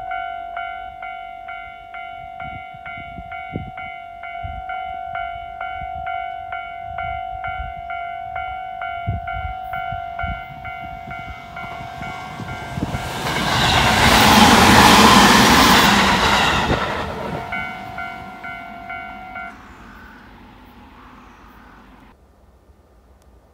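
A Tobu 20400-series electric commuter train passes at speed, its running noise building to a loud peak about two-thirds of the way through and then fading away. A railway level-crossing bell clangs about twice a second throughout and stops a few seconds after the train has gone.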